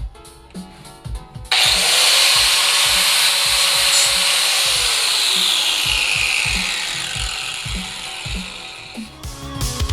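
A power tool's abrasive disc working steel exhaust tubing: a loud hissing whine that starts abruptly about a second and a half in and slowly falls in pitch before fading near the end. Electronic background music with a steady beat plays underneath.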